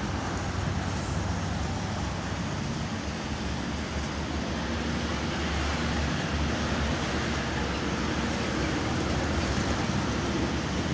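Steady road traffic on a toll road: a continuous low rumble with a hiss of passing vehicles, with no single event standing out.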